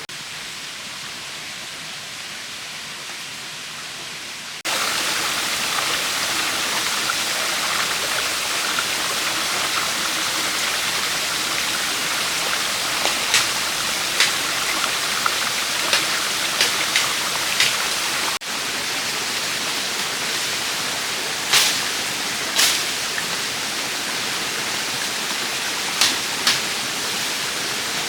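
Steady rushing noise like flowing water that gets abruptly louder about five seconds in, with scattered short sharp knocks or clicks over the second half.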